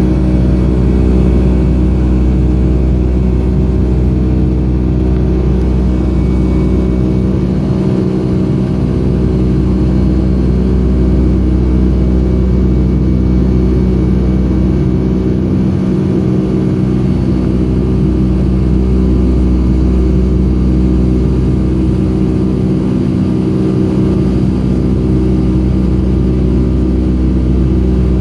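Boeing 757-232's Pratt & Whitney PW2037 turbofan engines at climb power, heard inside the passenger cabin as a loud, steady drone. Several steady hums sit over a deep rumble.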